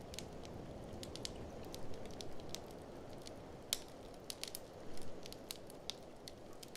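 Wood fire in a fireplace crackling, with irregular sharp pops and snaps, the loudest a little past halfway, over a steady low rush of blizzard wind.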